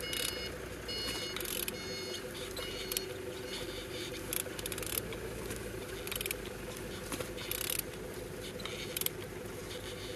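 The crankshaft of a 24V37 engine being turned over by hand, heard as short bursts of ratcheting clicks about every second and a half over a steady mechanical hum. An electronic beeping sounds during the first two seconds.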